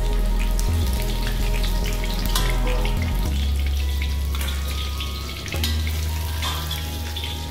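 Cornflour-coated chicken pieces deep-frying in hot oil in a wok, a steady sizzle with scattered crackles and pops. Background music with a low bass line runs underneath.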